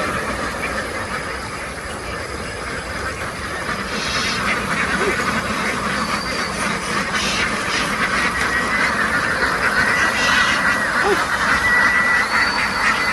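A large flock of domestic ducks quacking together in a dense, continuous din, getting a little louder about four seconds in.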